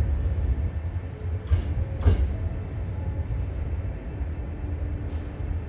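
Hankyu 3300 series electric train at the station: a low steady rumble, with two short sharp noises about a second and a half and two seconds in.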